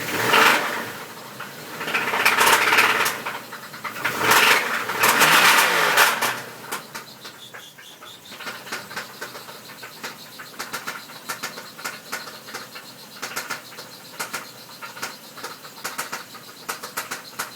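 1992 Toyota Cressida's 7M-GE straight-six engine revved three times, the last rev falling away, then idling with a regular sharp knock, two or three knocks a second.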